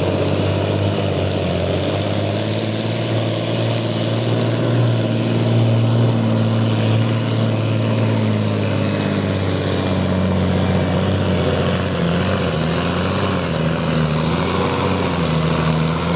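Massey Ferguson 2805 tractor's 10.5-litre diesel engine running hard under load while pulling the brake sled. It is a loud, steady engine note whose pitch wavers and sags a little in the second half as the sled gets heavier.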